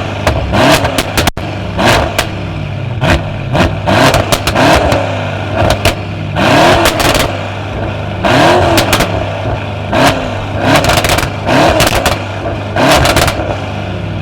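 Tuned car engine with a loud aftermarket exhaust, revved in a string of about a dozen short blips, each rising and falling in pitch and dropping back to a steady idle between them.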